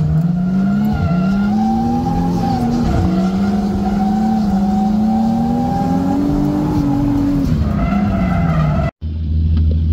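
Drifting 240SX's RB25DET turbocharged straight-six heard from inside the car, revving hard with its pitch rising and falling as the car slides, over the rush of skidding tyres. The sound cuts off abruptly near the end, giving way to a steady low hum.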